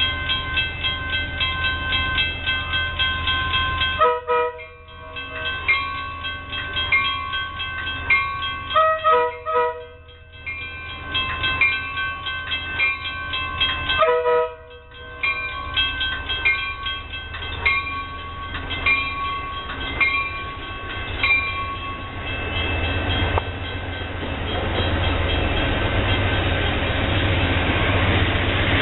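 Amtrak locomotive horn sounding long blasts, broken by brief pauses, as the train approaches. In the last several seconds the horn stops and the rumble of the oncoming train grows louder.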